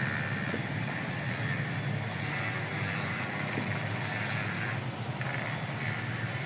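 A small engine running steadily with a low hum, and a higher hissing buzz that fades in and out over it.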